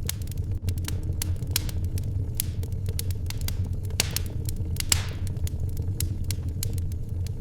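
Fireplace fire crackling with irregular sharp pops over a steady low rumble, and a brief hiss about four seconds in.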